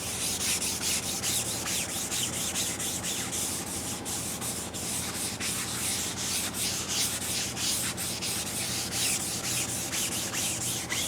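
Sandpaper scraping back and forth in quick, continuous strokes across the fender of a 1969 Pontiac GTO, leveling body filler and metal to take out waves before primer.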